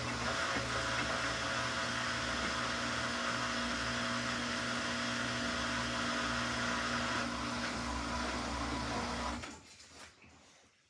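Samsung washing machine in its final spin: a steady whir and hum at an even pitch that cuts off abruptly near the end.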